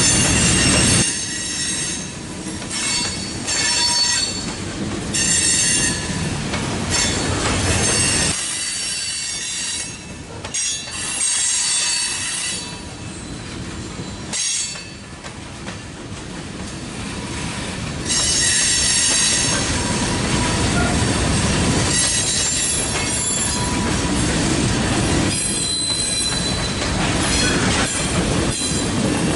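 Loaded coke hopper cars of a long freight train rolling past with a steady rumble, the car wheels squealing in high-pitched squeals that come and go.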